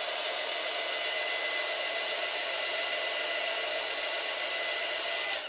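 Heat gun running steadily, blowing hot air with a steady high whine from its fan, to soften the adhesive holding an iPad's display cable to its shield. It cuts off with a click near the end.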